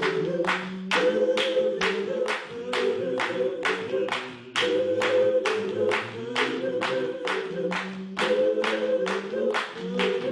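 Gospel choir singing a cappella in held harmony, with hand clapping on the beat about two to three times a second.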